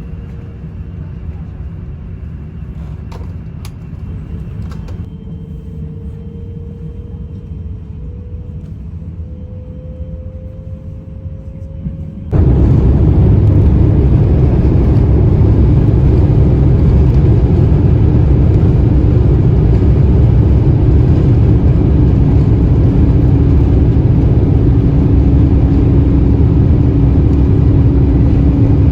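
Jet airliner cabin noise: a steady low engine rumble with a faint whine that slowly rises. About twelve seconds in it becomes suddenly much louder, a dense steady rumble with a steady hum.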